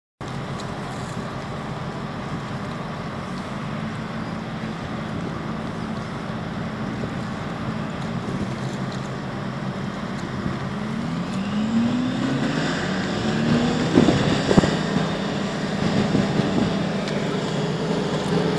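Engines running steadily, with one rising in pitch as it revs up about two-thirds of the way through and a couple of sharp knocks shortly after.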